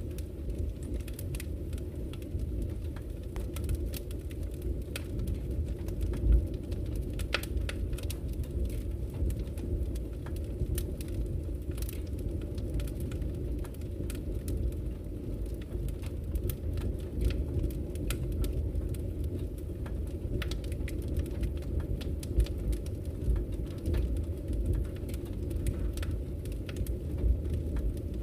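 Wood fire burning in a fireplace: a steady low rumble of flames with frequent sharp crackles and pops of burning wood, one louder pop about six seconds in.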